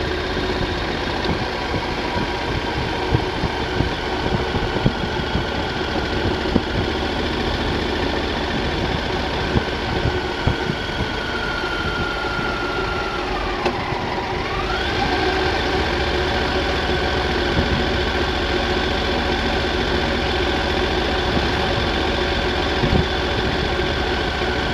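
Triumph Thunderbird motorcycle engine running steadily on the move, with wind and road rumble. About halfway through, the engine note drops and then quickly climbs back up.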